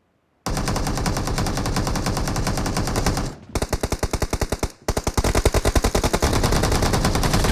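Rapid automatic gunfire in a shooter video game, starting about half a second in, thinning to separate shots and breaking off briefly twice before firing resumes.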